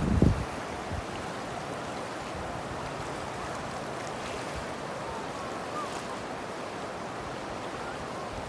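Rushing floodwater: the steady, even noise of a surging river running fast and turbulent. A brief low thump at the very start.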